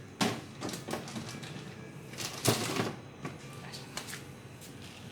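A plastic tray and frozen snack packets are handled and set into a freezer: several light clicks and knocks. The loudest sound is a rustling scrape about two and a half seconds in.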